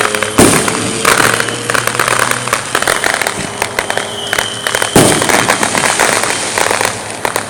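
Fireworks going off: two loud booms, one about half a second in and one about five seconds in, over a continuous rapid crackle of small firecrackers.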